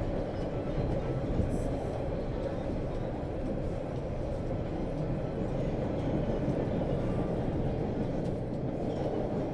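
Subway train running between stations, heard from inside the car: a steady low rumble of the wheels on the rails.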